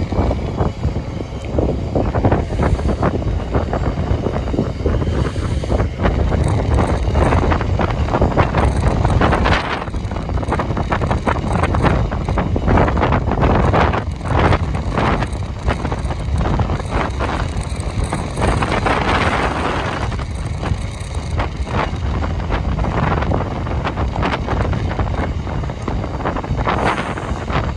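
Long rake of Drax biomass hopper wagons rolling past at lineside, a steady low rumble with wheels clattering over the rails, and wind buffeting the microphone.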